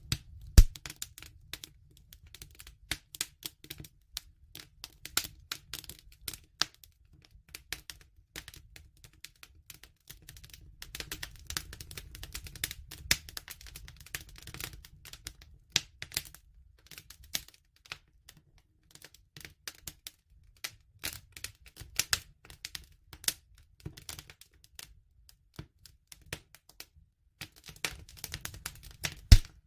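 Campfire burning: wood crackling and popping in quick, irregular snaps over a low rumble of flame, with a few louder pops.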